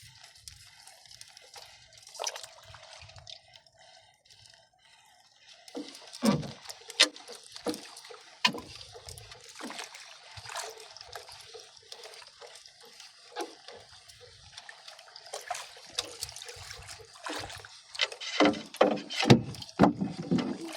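Water trickling, dripping and splashing, with scattered sharp knocks and clicks that start about six seconds in and come thickest near the end.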